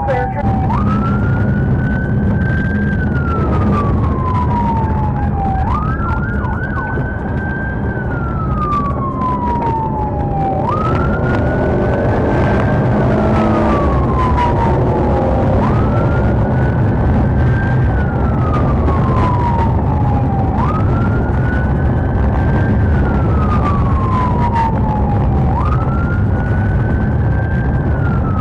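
Police car siren on a slow wail: each cycle rises quickly, holds briefly, then falls slowly, repeating about every five seconds. Under it runs the steady rumble of the vehicle's engine and tyres during a pursuit.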